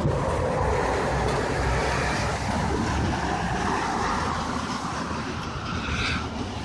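Hurricane wind roaring in a long, strong gust, buffeting the microphone, with a hollow tone that rises in pitch before the gust eases near the end.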